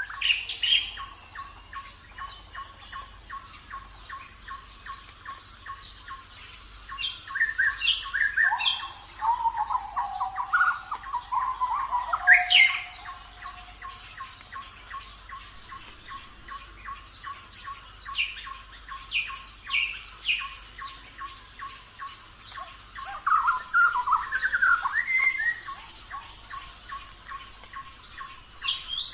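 Several songbirds chirping and singing in short warbled phrases, in two louder spells, one near the middle and one toward the end. Behind them runs a steady fast series of ticking notes, about four a second, with a faint steady high-pitched whine.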